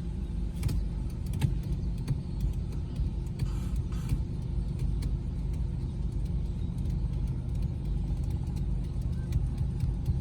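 Car engine and road noise heard from inside the cabin while driving in slow city traffic: a steady low rumble with a few light clicks.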